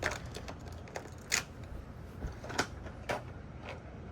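Toy monster trucks clicking and clattering as they are handled and set up for a race: a handful of light knocks and clicks, roughly one every half second to a second.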